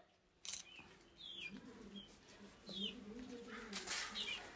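A pigeon cooing in low, rolling phrases, with short, high, falling chirps from another bird about four times.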